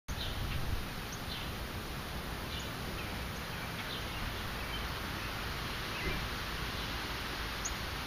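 Wild birds giving short, high chirps, one every second or so, over a steady hiss of outdoor background noise.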